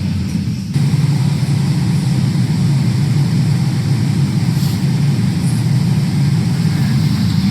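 Steady low running noise of a vehicle in motion, a constant hum with a rushing noise above it, briefly dipping just before a second in.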